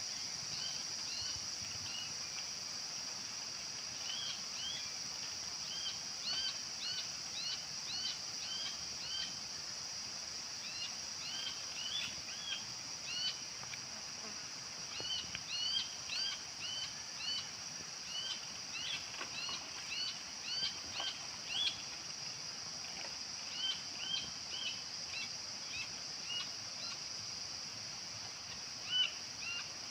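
Small birds giving many short, high, arching chirps in quick clusters, over a steady high insect drone.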